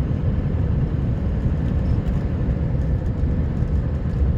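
Scania R560 plow truck's V8 engine and drivetrain running steadily under way, a low rumble heard from inside the cab.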